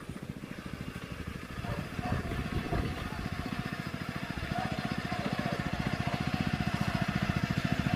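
An engine running with a steady, rapid pulsing beat, growing louder toward the end.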